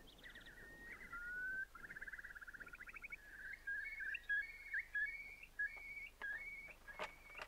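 A bird calling, faint: a run of whistled notes and fast bubbling trills, then quick repeated notes stepping between two pitches. There is a sharp knock near the end.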